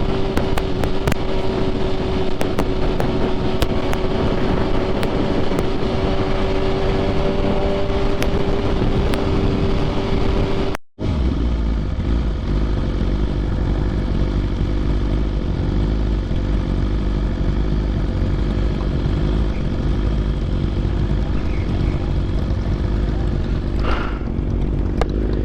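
BMW S1000RR inline-four sport bike with an aftermarket titanium exhaust, cruising at steady revs, with wind rushing past. The sound cuts out for a split second about eleven seconds in, and after that a heavy low wind rumble joins the engine.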